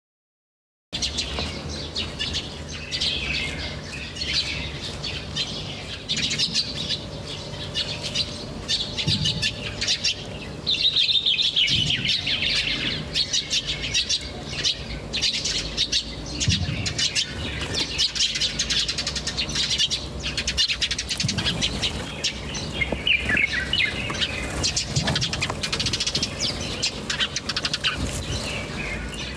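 Small birds chirping and twittering in quick, overlapping short calls over a low steady hum. The sound begins after a second of silence at the start.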